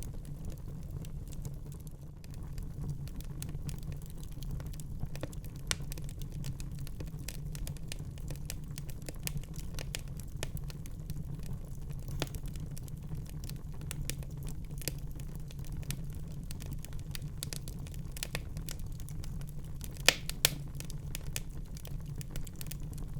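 Fire crackling in a fireplace: scattered small snaps over a steady low rumble, with two louder pops close together near the end.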